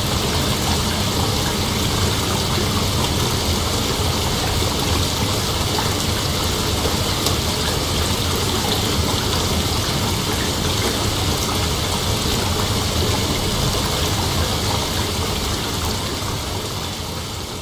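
Steady outdoor night ambience: a constant, even wash of noise that starts to fade out near the end.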